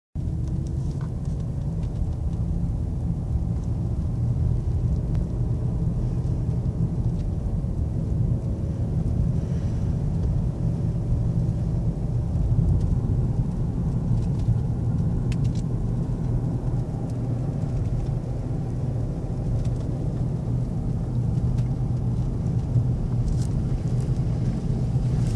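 Steady low rumble of a car on the road, with a few faint clicks.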